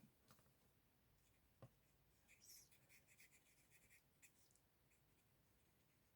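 Near silence, with faint short scratching strokes of a Stampin' Blends alcohol marker colouring on cardstock, plus a faint click.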